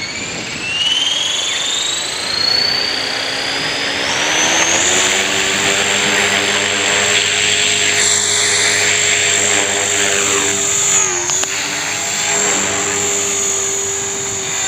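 Electric 450-size RC helicopter's brushless motor and rotor spooling up, a whine rising in pitch over the first four seconds or so, then running at a steady head speed with a brief dip in pitch about eleven seconds in.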